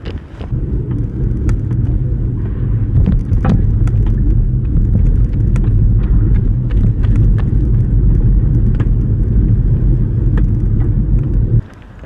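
Loud low rumble of riding, with scattered clicks and rattles, starting about half a second in and cutting off suddenly near the end.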